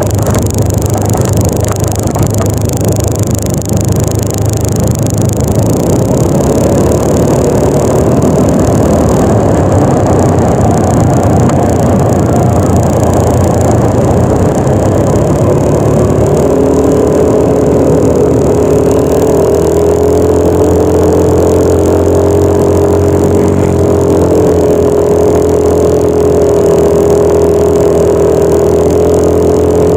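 Single-cylinder engine of a Yamaha NMAX 155 scooter running at a steady cruising speed under a loud rumble of wind and road noise. About halfway through, a steady engine note comes up clearly out of the noise and holds.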